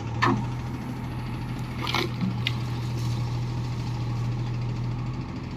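Diesel engine of a farm machine, a tractor or JCB backhoe loader, running steadily with a low hum. Two sharp metallic knocks cut across it, about a quarter second in and about two seconds in.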